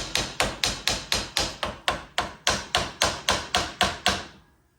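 A hammer tapping the prop shaft of a Polaris Sportsman ATV into place: a quick, even run of about twenty sharp strikes, roughly four or five a second, stopping shortly before the end.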